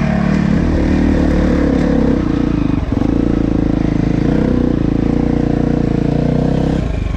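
Dirt bike engine running with its pitch shifting as the throttle changes. It dips briefly about three seconds in, and near the end drops to a low, slow putter.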